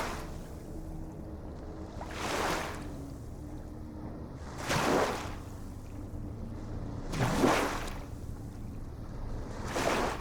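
Waves washing in a regular rhythm, one short swish about every two and a half seconds, four in all, over a faint steady low hum.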